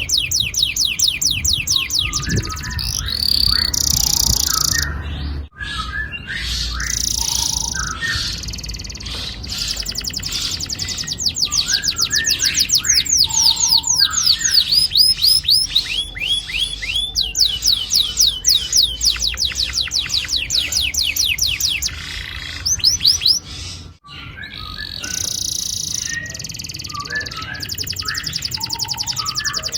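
Domestic canary singing long rolling trills: fast runs of rapidly repeated high notes, broken by shorter chirps and warbles. Two very brief gaps, about five seconds in and again near twenty-four seconds.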